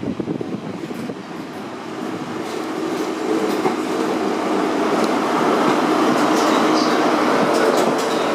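InterCity 125 high-speed train, led by its Class 43 diesel power car, running in along the platform, growing steadily louder as it nears. The passing coaches add wheel clicks over the rail joints.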